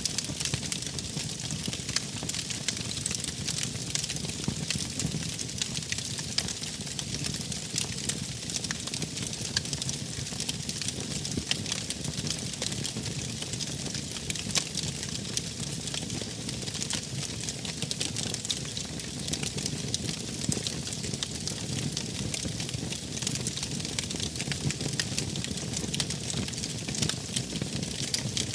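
Wood fire crackling steadily: a continuous scatter of small pops and snaps over a low rumble of burning.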